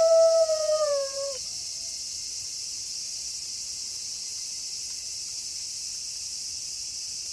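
A wolf's howl, held on one steady pitch, slides down in pitch and ends about a second and a half in. After it, a steady high chirring of crickets carries on alone.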